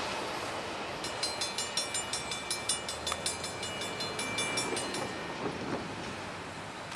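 A train running away down the track, its rail noise fading steadily. From about a second in until about five seconds in, a rapid high ticking with a ringing edge repeats some four or five times a second.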